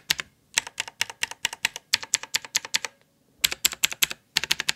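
Blue mechanical keyboard switch lubed with Vaseline, pressed over and over in quick runs of about seven clicks a second with short breaks between runs.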